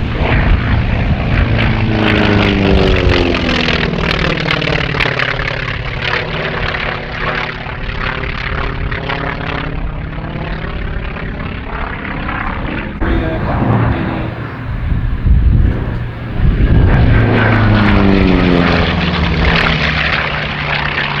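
North American T-28B Trojan's Wright R-1820 radial engine and propeller in display flight, passing low twice. Each time the engine note drops in pitch as the aircraft goes by, first about two seconds in and again about three-quarters of the way through, the second pass arriving with a sudden jump in loudness.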